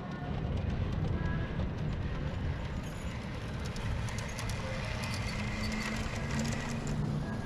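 Model train running on a layout, with light clicking from the track over a steady rumble of room noise.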